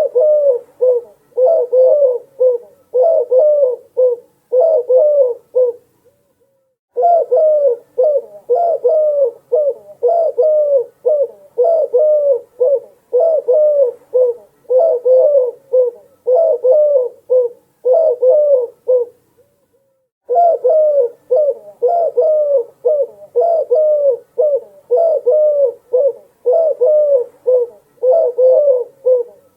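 Dove cooing in quick repeated phrases, roughly one a second. The cooing breaks off briefly twice.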